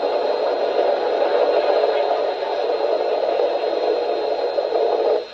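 Radio static hiss from the freight-yard crew-talk sequence of an MTH Proto-Sound 2 locomotive sound system, played through the model's speaker; it cuts off suddenly about five seconds in.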